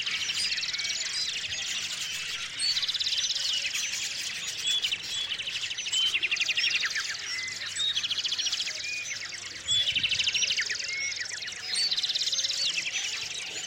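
Several small songbirds chirping, with a fast trill of rapid notes repeated every two to three seconds among many short high chirps.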